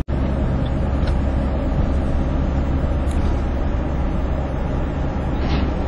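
Steady rumble of highway traffic and road noise heard from a moving vehicle, with the sound cutting out for an instant at the very start.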